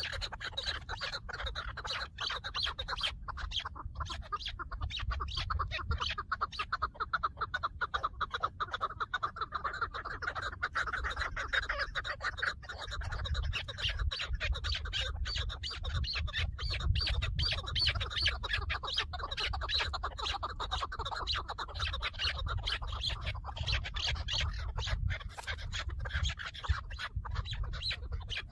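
Chukar partridge calling: a rapid, continuous run of clucking notes with a low rumble underneath.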